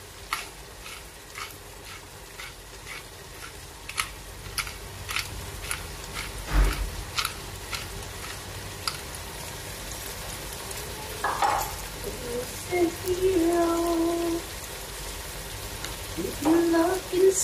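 Tomato sauce with sweet corn and mushrooms sizzling in a nonstick pot on a gas burner while being stirred with a wooden spoon. A run of light, evenly spaced taps through the first half, and one heavier knock about six and a half seconds in.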